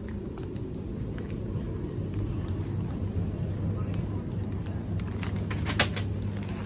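Steady low rumble and hum inside a passenger train carriage, with a few short clicks and knocks near the end.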